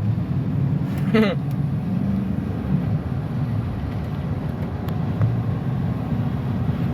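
Car engine running steadily with road noise, heard from inside the cabin, its exhaust muffler fitted. A short vocal sound about a second in.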